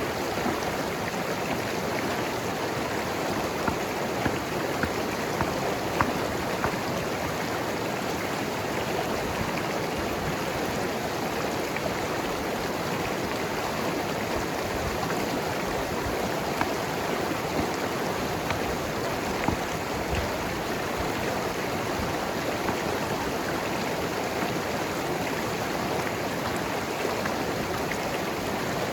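Mountain river flowing and gurgling over rocks, a steady rush of water with a few small splashes now and then.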